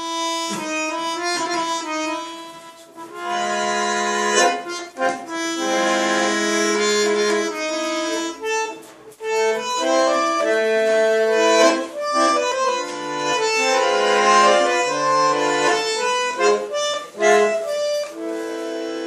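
Accordion playing a song's instrumental introduction: held chords under a melody line, phrased with short breaks between phrases.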